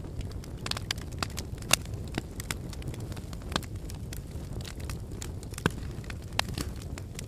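Fire burning in a fireplace, crackling with irregular sharp pops over a low steady rumble of flames; the loudest pops come at about two seconds in and again near six seconds.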